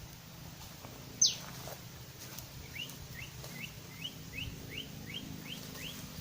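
Bird calls: one sharp, loud falling whistle about a second in, followed by a series of about nine short, rising chirps at roughly three a second.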